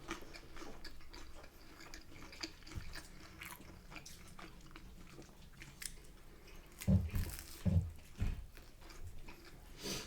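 Close-up mouth sounds of a person chewing battered fish and chips, with small wet clicks and crunches, and a few louder low sounds about seven and eight seconds in.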